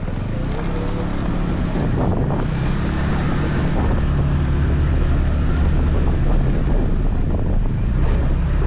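Scooter riding sound: wind buffeting the microphone over the steady low drone of the scooter's engine and road noise.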